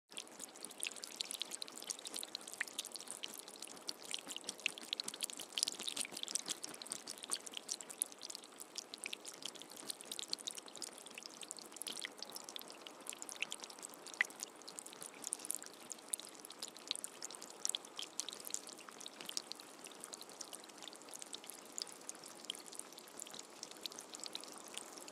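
Steady rain falling, with many small drop hits close by over an even wash of water noise. No thunder is heard.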